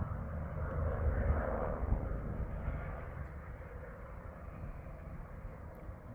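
Air ambulance helicopter circling overhead, its rotor and engine heard as a steady low rumble that slowly fades as it moves off.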